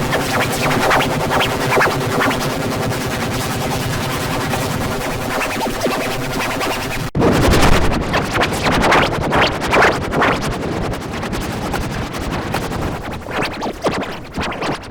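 Harsh, heavily distorted music-like noise with steady droning tones, cutting off abruptly about seven seconds in, then a crackly, clattering stretch full of sharp pops.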